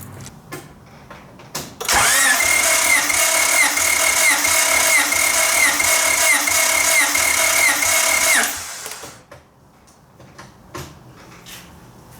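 Starter motor cranking a Honda D16Z6 engine over for about six seconds without it firing, the whine dipping in pitch at a regular beat, about twice a second, as cylinders come up on compression. This is cranking for a compression test.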